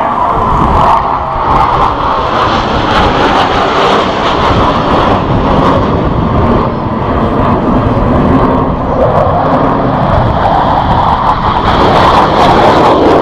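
Loud, steady jet engine noise from Blue Angels F/A-18 Hornets flying over.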